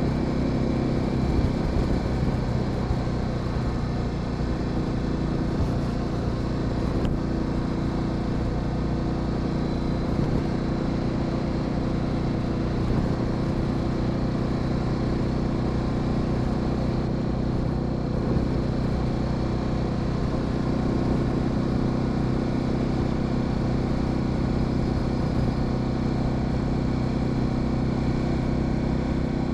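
Honda Sahara 300 single-cylinder motorcycle engine running at a steady pitch while riding, with road and tyre noise.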